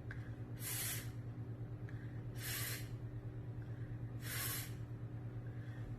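A voice making the unvoiced phonics 'th' sound three times: short breathy hisses about two seconds apart, with no vowel after them. A steady low hum sits underneath.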